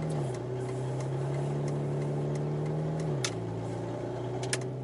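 Aston Martin engine running under way with an exhaust leak, its steady note dropping in pitch twice, just after the start and about three seconds in, with light scattered clicks. The owner believes the leak is at the extractor manifold, from loose manifold nuts.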